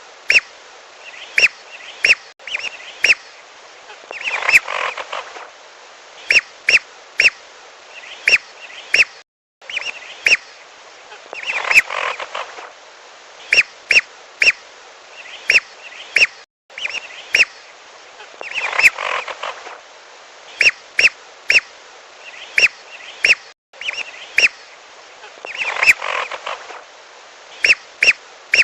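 Recorded calls of lesser whistling ducks: short, sharp whistles in quick clusters of two to four, with a denser burst of chattering whistles about every seven seconds. It is a looped lure recording over a steady hiss, cutting out completely for a moment three times where the loop restarts.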